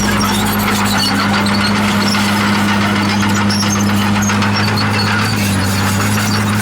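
Komatsu D51PX bulldozer's diesel engine running at a steady drone, with scattered high clinks and squeaks over it.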